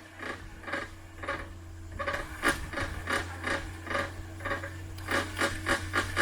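Rapid, rhythmic rasping strokes, about four a second, over a steady low hum.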